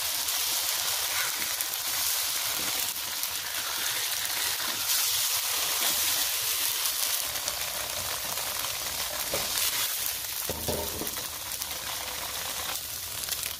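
Smooth tofu pan-frying in hot oil over medium-high heat, a steady sizzle as the pieces brown. A couple of brief knocks come near the end.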